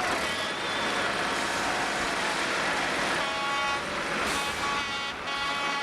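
Modified pulling tractor's engines running at high power during a pull, a dense mechanical noise with pitched tones that shift up and down.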